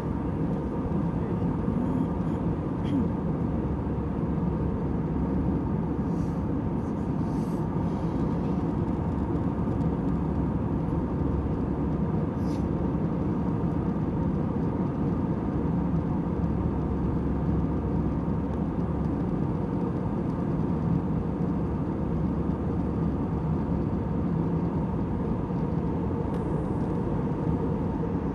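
Airliner cabin noise in flight: a steady low rush of engines and airflow with a faint hum, and a few faint clicks.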